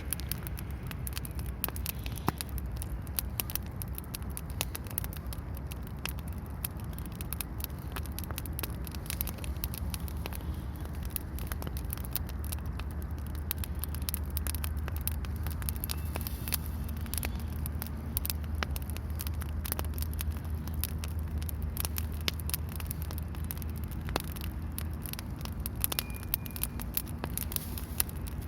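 Campfire crackling, with frequent irregular sharp pops and snaps over a low steady rumble.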